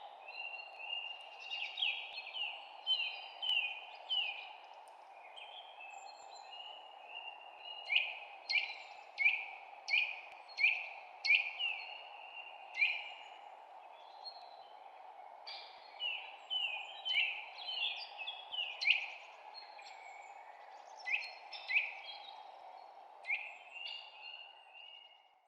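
Small birds chirping: short, sharply falling chirps repeated in quick runs of about one or two a second, over a steady background hiss.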